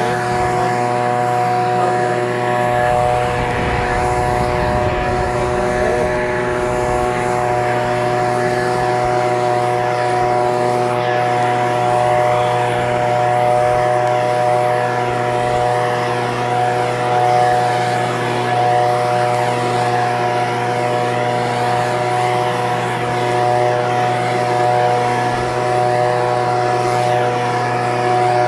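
Echo PB-2620 handheld leaf blower's small two-stroke engine running at a steady speed, with the blower fan's rush, holding one unchanging pitch throughout.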